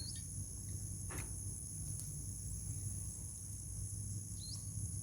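Steady high-pitched chorus of insects, likely crickets, over a low outdoor rumble, with a faint knock about a second in and a short rising chirp near the end.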